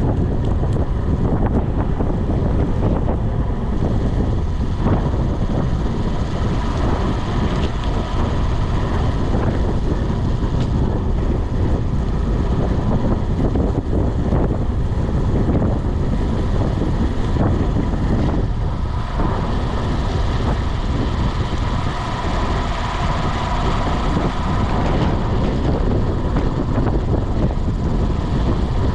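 Steady wind rumbling over the microphone of a bicycle ride, heaviest in the low end, with a hiss above it.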